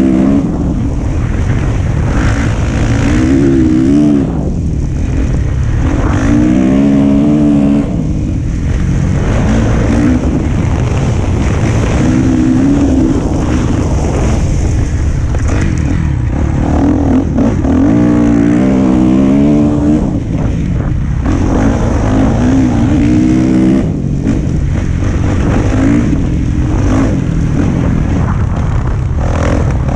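Dirt bike engine revving up and down while being ridden, its pitch rising and falling every couple of seconds with the throttle, loud and continuous.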